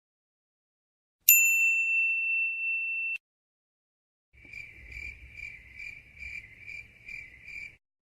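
A single bright ding sound effect rings for about two seconds and cuts off abruptly. After a short pause comes a cricket-chirping sound effect of about eight evenly spaced chirps, the stock 'awkward silence' gag.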